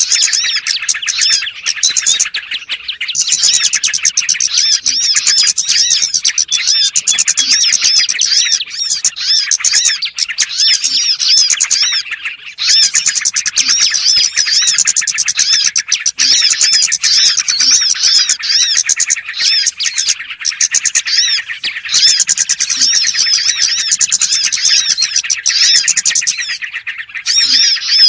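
Dense, continuous chirping of many small birds, rapid high twittering notes overlapping with barely a pause: a lure-call recording used to draw small birds in for trapping.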